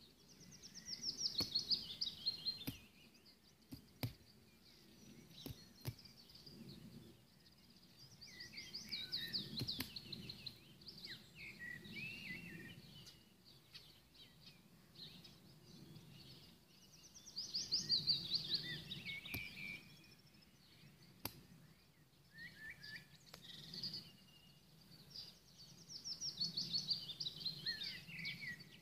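A songbird singing the same short phrase of quick notes that fall in pitch, four times about eight seconds apart, over a low steady background rumble.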